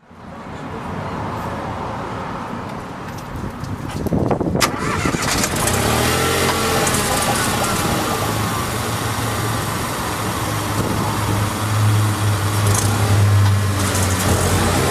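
Renault Twingo III's three-cylinder engine started about four seconds in, then idling, heard through a TEZZO Premium aftermarket exhaust muffler.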